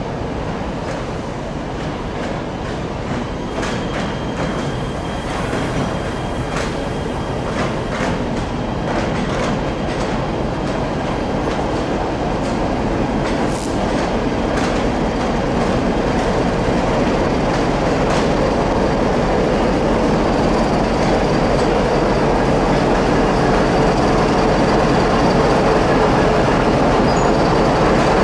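Passenger coaches rolling slowly past, with scattered wheel clicks over the rail joints and a faint wheel squeal. The BDZ class 55 diesel locomotive at the end of the train draws near, and the sound grows louder toward the end.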